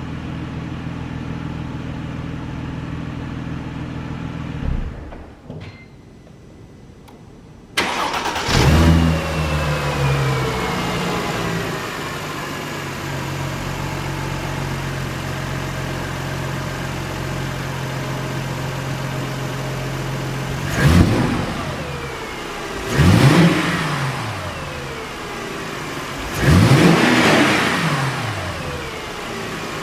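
2006 Mercedes-Benz SLK350's 3.5-litre V6 idling, then cut off. A few seconds later it starts again, flares up, and settles back to a steady idle. It is then revved three times, each rev rising and falling, the last held longest.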